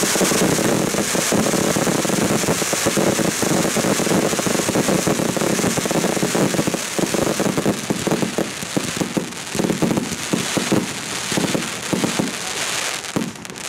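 Fireworks going off in a dense, continuous stream of rapid crackles and pops, thinning out and fading near the end.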